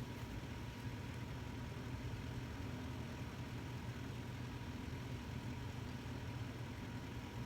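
Engine idling steadily with a low, even hum and a faint steady whine above it.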